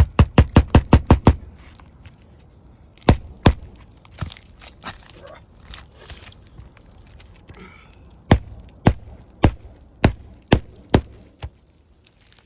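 Hammer driving roofing nails through a three-tab asphalt shingle: a quick run of about eight strikes at the start, a few single blows, then a steady series of blows about half a second apart in the second half.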